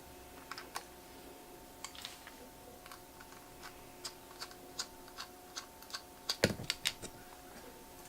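Small metallic clicks and taps of a Torx screwdriver backing small screws out of a laptop hard drive and the screws being handled, with a louder cluster of knocks, one with a dull thud, about six and a half seconds in. A faint steady hum runs underneath.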